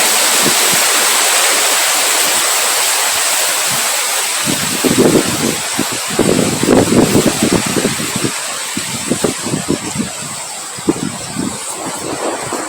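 Strong wind blowing in a steady hiss, with gusts buffeting the microphone in low rumbles, most of them about five to seven seconds in.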